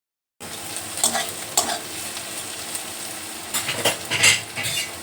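Chopped onions frying in mustard oil in a kadai: a steady sizzle with a spatula scraping and clinking against the pan several times as they are stirred. The sound cuts in abruptly a moment in.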